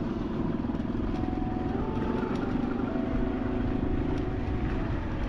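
Motorcycle engine running steadily while riding, with a low rumble of wind on the microphone; the engine pitch shifts slightly about two seconds in.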